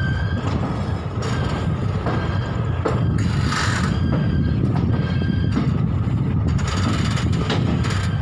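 Express passenger train heard from an open coach doorway: a steady low rumble of the running coaches with irregular clicks and knocks as the wheels pass over rail joints and points.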